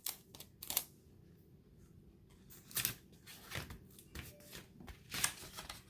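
Sticky tape and paper being handled: a few short, scattered rustles and crackles as tape is pulled off and pressed down to fix a streamer to a paper kite.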